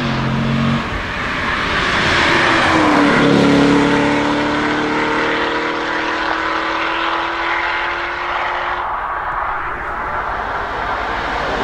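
Eadon Green Zeclat's 6.2-litre Chevrolet LT1 V8 driving past at speed. Its engine note is loudest and drops in pitch about three seconds in as it goes by, then climbs steadily as the car accelerates away.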